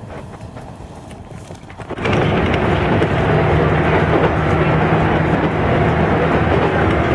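Mito Line train running, heard from inside the carriage: a quiet rumble that suddenly turns much louder about two seconds in and stays at a steady, loud running noise with a low hum.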